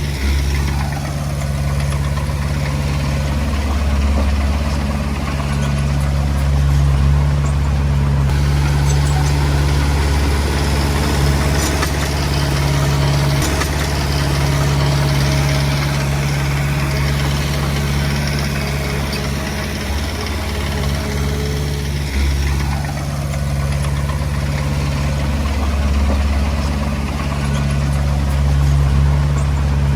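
Komatsu D20P bulldozer's diesel engine running steadily under work, its note dipping and recovering twice.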